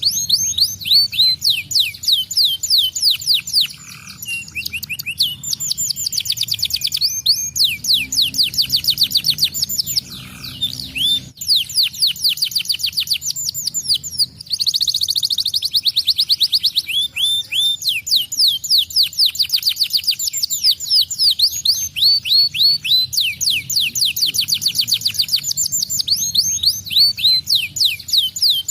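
Domestic canary singing continuously in rapid trills of quick downward-sweeping notes, switching from one trill to another every second or two.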